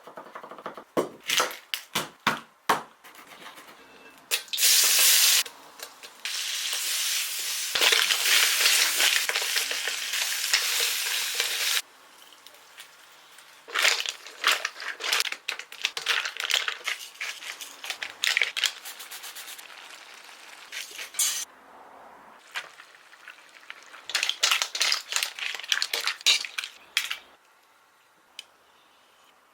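Food frying in a pan: a loud sizzle lasting several seconds, with utensils clicking and scraping against the pan as it is stirred before and after.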